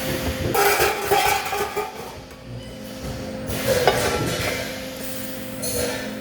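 Metal pieces clattering and scraping in two bursts, the first just after the start and the second near the middle, over a steady electrical hum.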